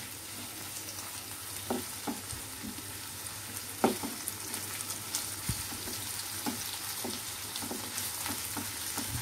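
Chopped onion, tomato and ginger sizzling in oil in a non-stick pan while being stirred with a spatula: a steady frying hiss with soft scrapes and taps of the spatula on the pan, the loudest a knock about four seconds in.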